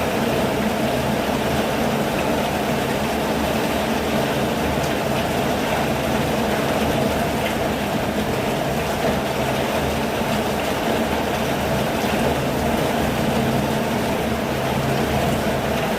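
Steady rain, an unbroken even hiss with a low rumble underneath.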